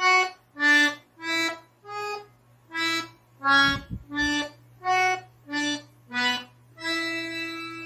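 Accordion playing a slow melody one detached note at a time, about eleven notes, the last held long near the end. A faint low hum runs underneath.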